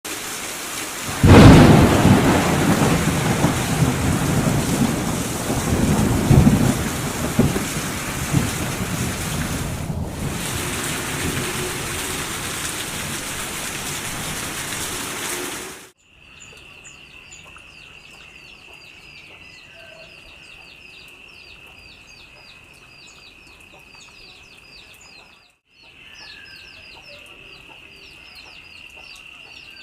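Heavy rain during a thunderstorm, with a clap of thunder about a second in that rumbles on for several seconds. About halfway through the sound changes to a much quieter scene: a steady high-pitched drone with rapid, repeated short chirps above it.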